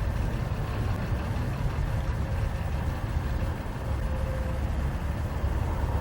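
Norfolk Southern freight train's diesel locomotives running with a steady low rumble.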